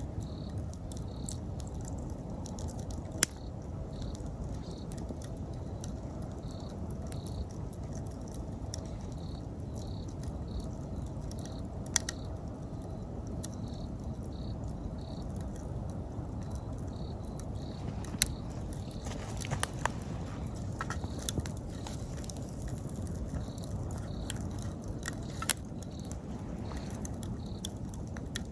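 A wood campfire burning with a steady low rush and occasional sharp pops and crackles; four pops are loudest, with a small cluster of crackles past the middle. Behind it an autumn insect chirps in short, regular pulses, about two a second.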